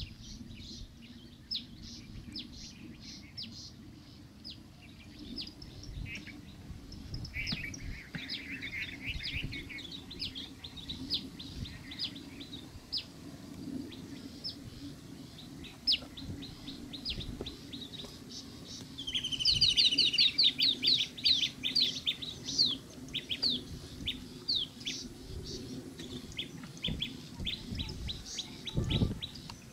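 Small birds chirping repeatedly in short, high calls, with a loud burst of rapid chattering calls about two-thirds of the way through, over a low steady background noise.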